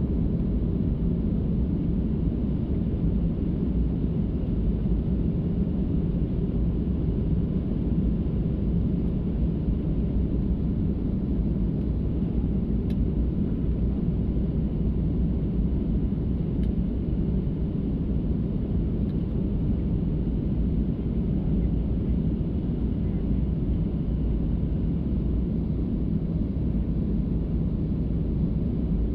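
Steady low rumble of a passenger jet's engines and airflow heard from inside the cabin, holding even throughout.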